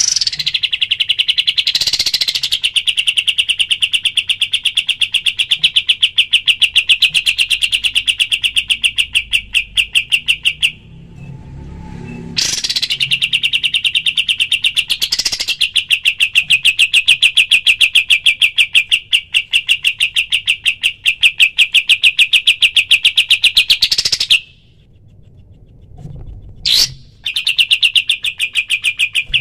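Kapas tembak songbird singing its rapid-fire 'tembakan' song: long runs of fast, evenly repeated sharp high notes, broken twice by pauses of a second or two, with a few brief higher chirps between runs.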